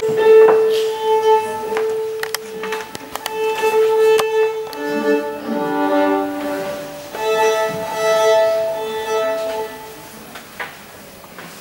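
Violin playing a slow melody of long held notes, with some two- and three-note chords in the middle, fading out near the end.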